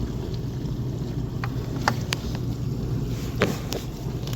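Dishwasher running, a steady low rumble of its wash water and pump, with several light clicks and taps.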